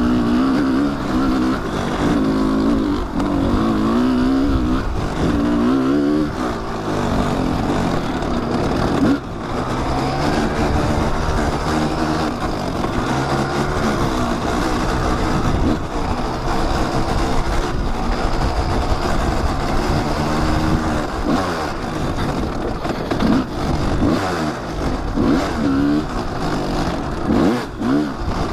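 Kawasaki dirt bike engine on a trail ride, revving up and down over and over, its pitch rising and falling with the throttle. There is a brief dip about nine seconds in.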